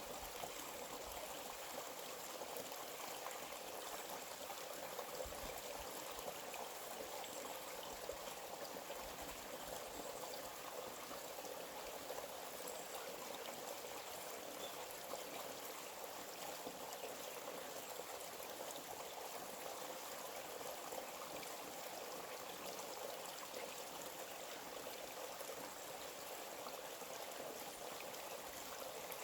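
Small forest stream running steadily, an even rush of water with no breaks.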